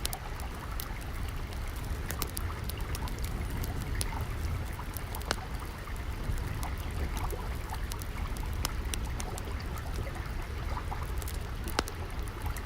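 Water running and trickling steadily with a low rumble, under scattered sharp crackles and pops from a wood fire, one louder pop near the end.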